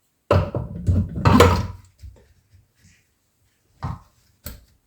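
Knocks and clatter of parts being handled and fitted together, a longer spell of it at the start and then two short knocks near the end.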